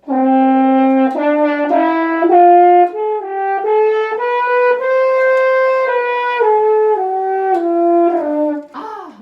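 French horn playing a scale loudly, rising note by note about an octave to a held top note, then coming back down. The way up is tongued, each note with its own attack; the way down is slurred.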